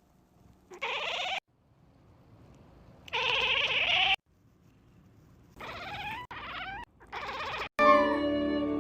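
An animal squealing in five short bursts of rapid, rising squeaks, with music starting near the end.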